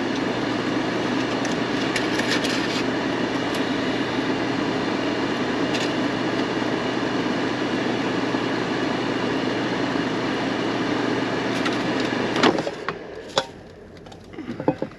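An electric kitchen appliance running with a steady fan-like whir and a low hum, switched off with a click about twelve and a half seconds in. A few light clicks and knocks of cookware follow.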